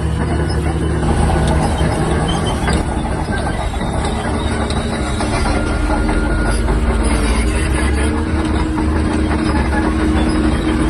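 Shantui DH17-C3 bulldozer working: its diesel engine runs steadily under the constant clatter and clank of the steel tracks.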